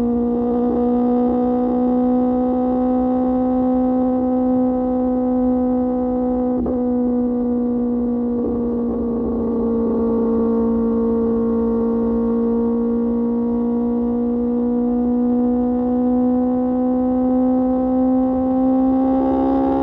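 QJ Motor SRK600's inline-four engine, heard through an SC-Project exhaust, running at a steady cruise. Its note eases down slightly around the middle and climbs again near the end.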